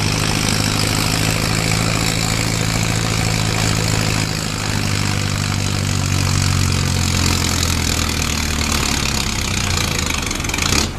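Antique farm tractor engine running steadily under load in a tractor pull. The sound cuts off suddenly near the end.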